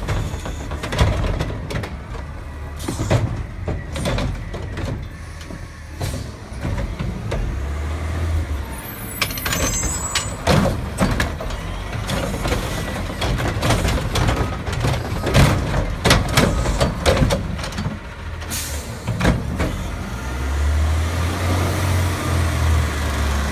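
Garbage truck's diesel engine running, with many sharp metal clanks and bangs. A brief high squeal comes about nine to ten seconds in, and the engine revs up around eight seconds and again near the end.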